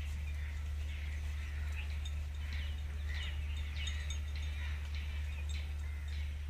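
Small birds chirping and twittering in many short, quick calls, over a steady low rumble.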